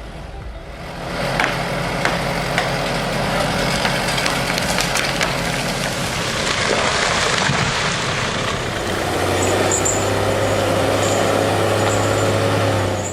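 A heavy engine running, with a dense crackling, splintering noise through the middle. In the last few seconds it settles into a steady low drone.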